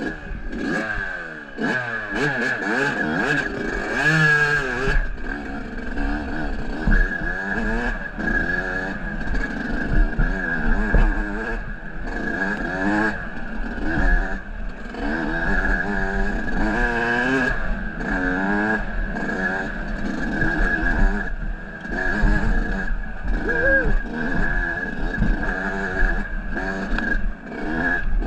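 Off-road vehicle engine on a trail ride, revving up and down over and over as the throttle is worked and gears change, with a steady high whine over it. The engine is on its first ride after it seized.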